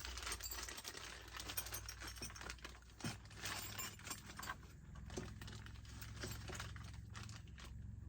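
Loose chainsaw chain being handled, its steel links rattling and clinking in a dense run of small metallic clicks that thins out near the end.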